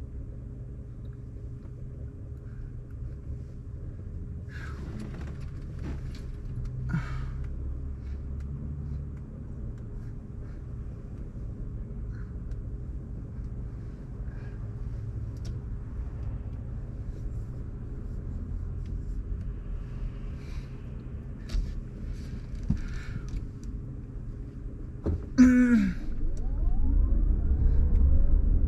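Car being driven, heard from inside the cabin: a steady low rumble of road and engine noise, with a few faint short clicks and squeaks. Near the end there is a brief falling-pitched sound, then the rumble gets louder.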